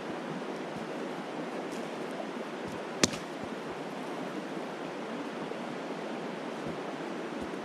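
Creek water flowing steadily, with one sharp click about three seconds in.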